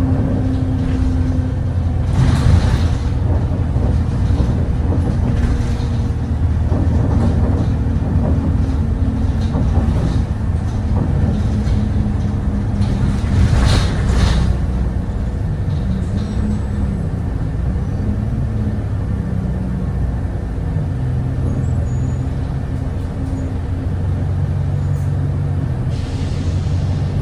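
Cummins ISBe diesel engine of an Alexander Dennis Enviro 200 bus, heard from inside the cabin, running under way with its pitch rising and falling. Two short hisses of air are loudest, about two and a half seconds in and again about fourteen seconds in.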